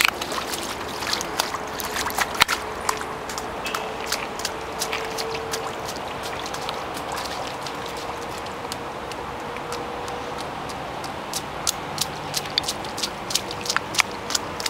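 Steady rain falling: a constant hiss with many irregular, sharp taps of drops landing close by.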